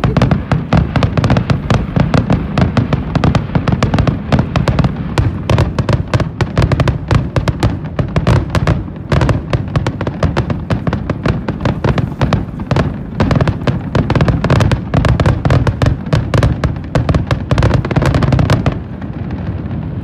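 Fireworks display at its peak: a dense barrage of bursts and bangs following one another with almost no gap. It stops suddenly shortly before the end.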